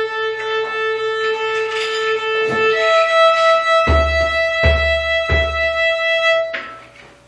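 Live music: a sustained melodic instrument holds one long note, then a higher long note, while a drum gives three deep hits in the middle. The playing stops shortly before the end.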